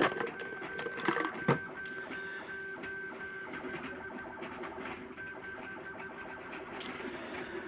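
MakerBot Thing-O-Matic 3D printer's stepper motors whining as they drive the print head through the final layers. A steady high tone stops and starts with each move, and there are a few sharp clicks.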